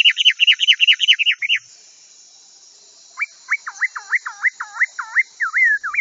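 Birds chirping: a quick run of high repeated chirps for about a second and a half, then, after a short pause, a series of swooping notes that dip and rise again, about four a second.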